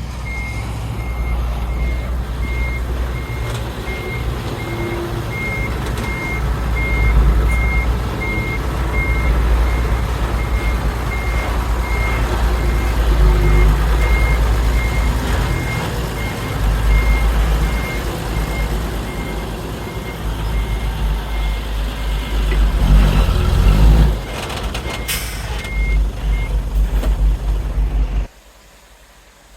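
Reversing alarm of a heavy earthmoving vehicle beeping at an even pace over a running diesel engine. The beeps stop near the end, and the sound cuts off sharply just before the end.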